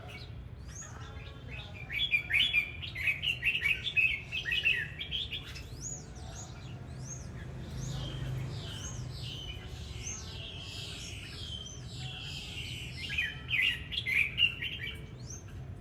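Red-whiskered bulbul singing: a burst of quick warbling chirps about two seconds in lasting about three seconds, softer notes between, and a second burst near the end, over a low steady hum.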